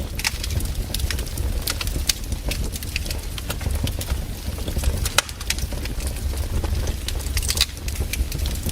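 Wood campfire crackling, with irregular sharp snaps and pops over a steady low rumble of burning.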